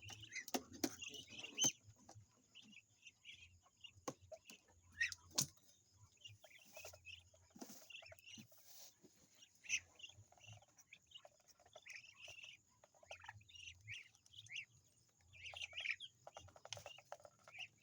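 Poultry calling faintly: short, scattered high chirps and clucks, with a few sharp clicks or knocks in between.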